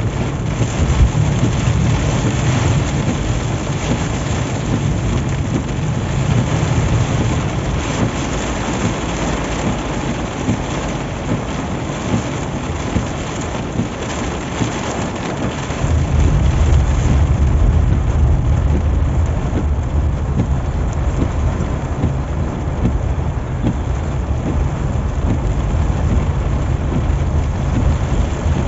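Heavy rain falling on a car driving on a highway, over a low road-and-engine rumble. The rumble thins in the middle and comes back strongly about sixteen seconds in, while the hiss of the rain eases.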